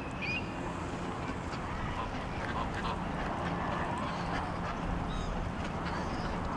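Ducks quacking softly and intermittently over a steady background hiss.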